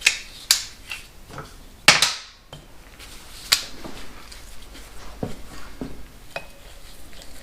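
Metal hand tools clinking and knocking against the motorcycle's engine and frame: a handful of sharp metallic clanks with a short ring, the loudest about two seconds in, then lighter taps.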